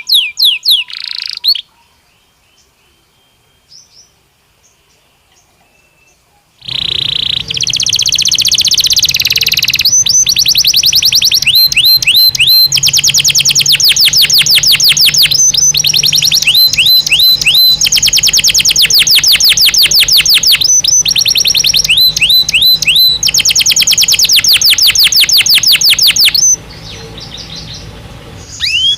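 Belgian canary singing in fast trills of rapidly repeated notes. The song stops briefly about two seconds in, resumes some seconds later as a long, nearly unbroken run of trills, falls quieter near the end and picks up again.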